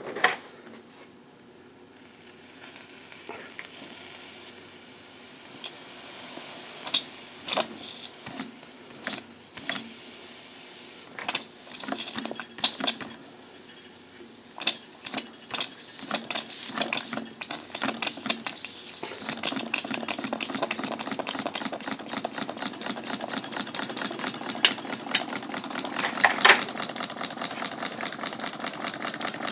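Live steam hissing and spitting with irregular sharp clicks and knocks, then, about two-thirds of the way in, a homemade steam engine on boiler steam settles into running with a rapid, even beat.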